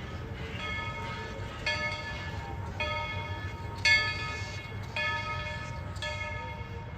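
Steam locomotive No. 190's bell ringing steadily, about one stroke a second, over a low rumble from the train.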